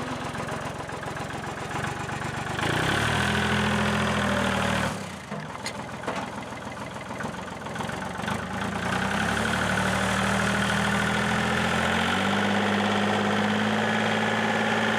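An engine running, its speed stepping up about two and a half seconds in, dropping back about five seconds in, then rising again in steps around nine and twelve seconds.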